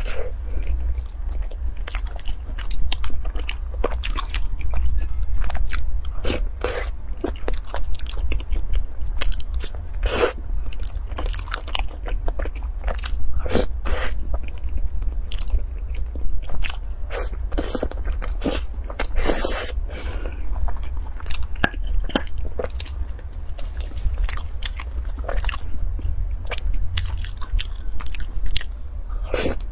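Close-miked biting and chewing of dark bread buns with a yellow filling, in irregular crunches and crackles, over a steady low hum.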